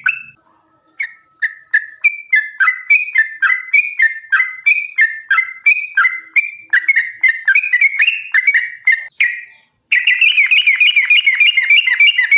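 Yellow-vented bulbul (trucukan) song: a long, rapid run of bubbly chirping notes, about three to four a second. Near the end a denser, overlapping run of notes starts abruptly.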